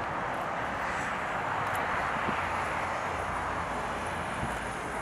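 Steady rushing engine noise of a jet airliner, even in loudness throughout.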